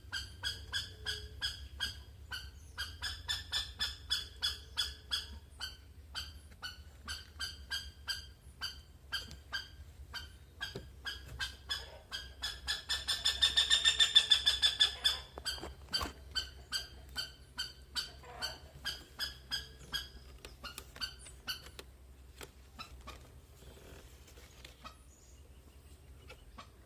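Saracura wood-rail calling: a long run of ringing, repeated notes, about three to four a second, swelling to its loudest about halfway through and fading away after about twenty seconds.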